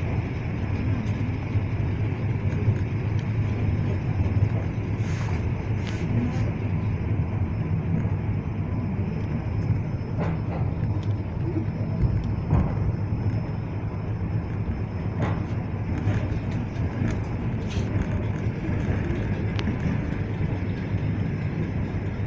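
A suburban electric train running at speed, heard from inside the carriage: a steady low rumble of wheels on rails with scattered sharp clicks.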